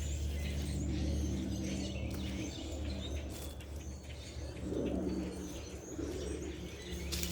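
Small birds chirping and tweeting in short scattered calls, over a steady low hum.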